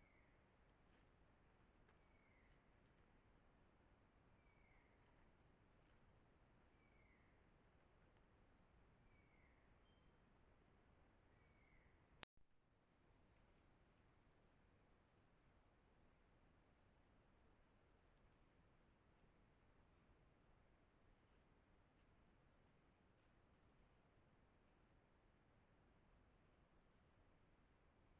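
Faint chorus of insects: steady, fast-pulsing high trills. In the first half, a short falling chirp repeats about every two seconds. A sharp click comes a little before halfway, after which the trilling continues at a slightly different pitch.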